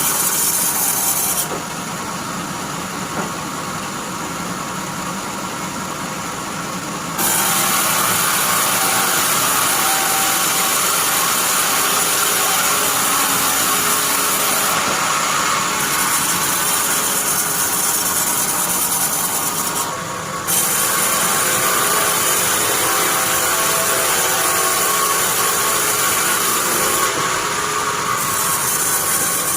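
Bandsaw mill sawing pine, a continuous loud hiss of the blade cutting through wood over the machine's running noise. The cutting sound drops away from about 1.5 s to 7 s and briefly near 20 s, leaving the quieter hum of the saw running.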